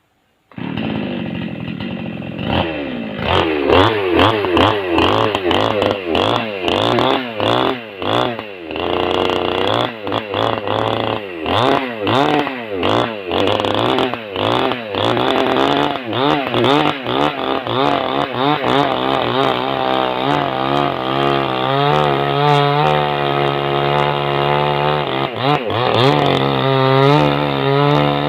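Small chainsaw running, revving up and down over and over, then held at a steadier high speed with small dips in pitch as it saws into a log.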